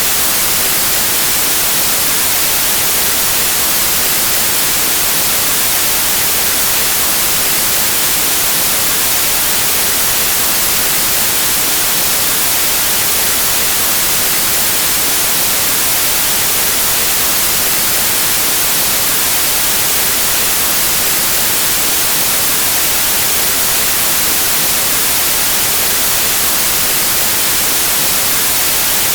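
Pure white noise: a steady, even static hiss, brightest in the high frequencies, unchanging throughout.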